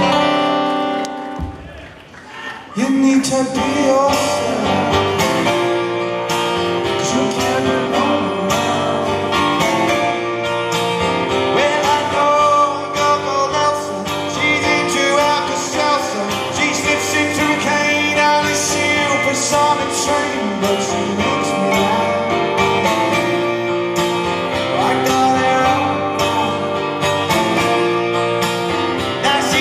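Live rock band playing, with electric guitars, drums and a male lead singer. The sound drops away briefly about two seconds in, then the full band comes back in.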